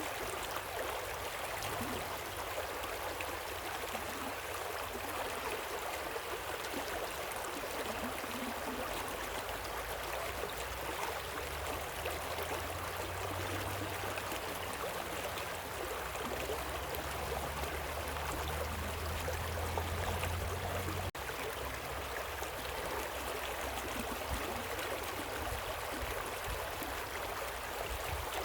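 Steady rushing of a waterfall and stream, with a low rumble underneath that swells through the middle and drops abruptly about three quarters of the way through.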